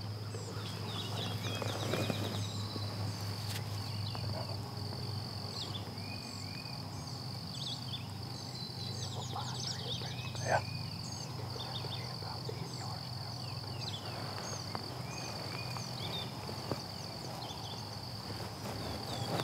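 Birds singing in woodland: many short chirps and whistles over a steady high-pitched drone, with one brief, louder falling call about ten seconds in.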